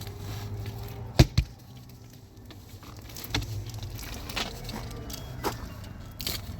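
Two loud, sharp knocks in quick succession about a second in, then several lighter clicks and taps over a low steady hum.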